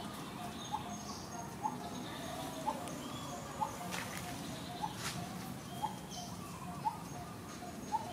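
A bird repeating a short rising call about once a second, over steady outdoor background noise.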